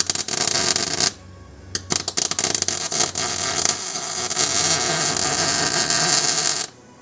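Electric arc welding a suspension bracket: a crackling arc for about a second, then, after a short pause, a longer steady run of about five seconds that stops abruptly.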